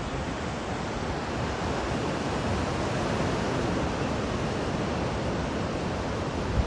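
Ocean surf breaking and washing on a beach, a steady rush of water.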